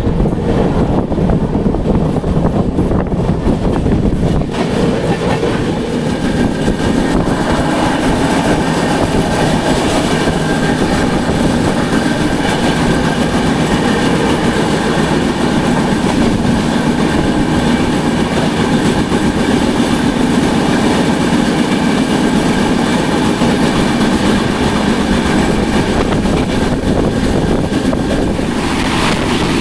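Duronto Express passenger train running at speed: a steady, loud rumble of wheels on rail, with clickety-clack over rail joints.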